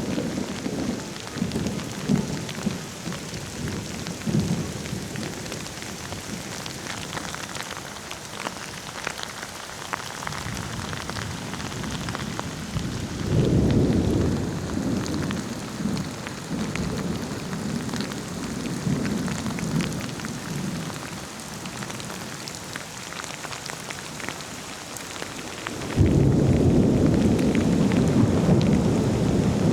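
Steady rain falling, with rolling thunder. A rumble swells up about halfway through and rolls on for several seconds, and a louder peal breaks in suddenly near the end.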